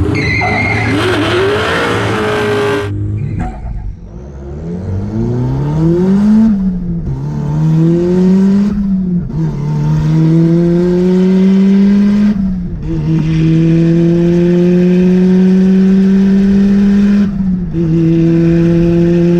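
Turbocharged Mazda Miata engine at full throttle on a drag run. After about three seconds of loud, noisy rumble it launches, and its note climbs through each gear and drops at four upshifts, each gear pulling longer than the last.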